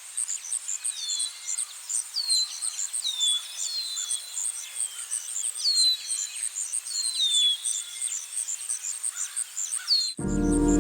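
Outdoor nature ambience: insects keep up a fast, high, steady pulsing while a bird repeats a short falling call about once a second. Music comes in near the end.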